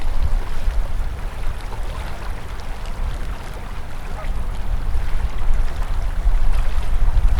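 Winter river flowing: a steady rush of open water with small trickles and splashes, over a heavy low rumble.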